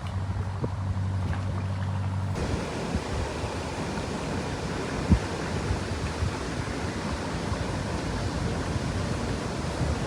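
Steady low drone of a boat engine, then about two seconds in an abrupt change to a rushing noise of wind and waves buffeting the microphone, with a few faint knocks.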